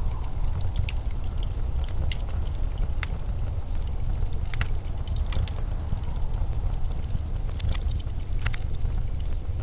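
Steady low blizzard wind, with scattered sharp clicks throughout.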